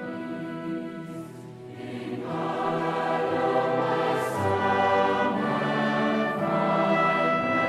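Choir singing a slow piece in long held chords, swelling louder about two seconds in.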